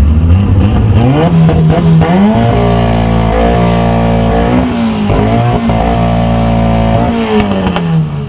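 Car engine with a loud exhaust, revved up about a second in and held at high rpm for several seconds with a couple of brief dips, then dropping back toward idle near the end.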